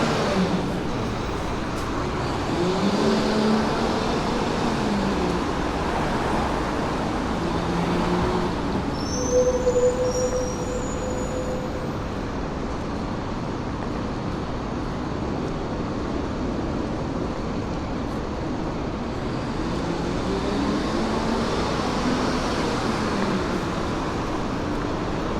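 Steady road traffic with vehicles passing, their engines rising and falling as they go by near the start and again near the end. About ten seconds in there is a brief high-pitched squeal over a short steady tone.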